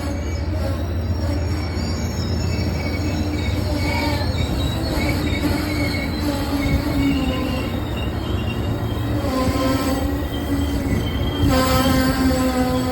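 Train wheels squealing on the rails over a steady low rumble of a moving train. The squeal grows louder about a second and a half before the end.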